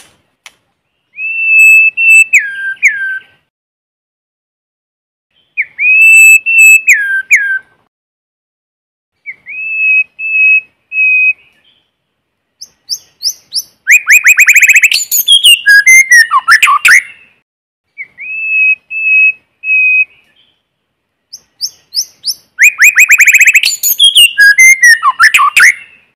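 White-rumped shama singing: six loud phrases with pauses between. Plain clear whistles held on one pitch and dropping at the end alternate with longer, more complex phrases of rapid trills and sweeping notes.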